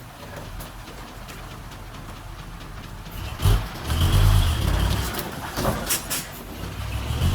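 Diesel engine of heavy earthmoving machinery running low at first, then working hard from about halfway through, with a few sharp metallic clanks.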